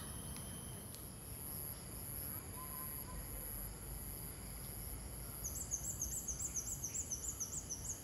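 A steady high-pitched insect drone runs on. From about two-thirds of the way in, a bird sings a fast run of short, high, rising notes, about six a second, which is the loudest sound.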